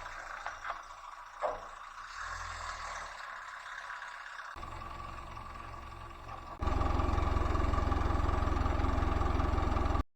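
A vehicle engine running, with a few knocks in the first couple of seconds. About two-thirds of the way through it jumps suddenly to a much louder, dense low rumble, which cuts off just before the end.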